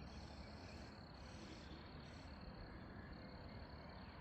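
Faint outdoor ambience, close to silence: a steady high insect drone over a low rumble, with a few brief higher chirps in the first couple of seconds.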